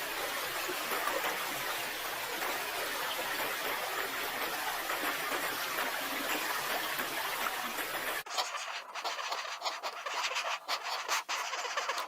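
Rushing stream water, a steady hiss that cuts off abruptly about eight seconds in. After that come scattered light clicks and scratches.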